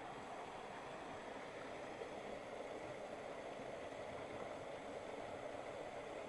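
Steady, even rush of a mountain river or waterfall running over rocks.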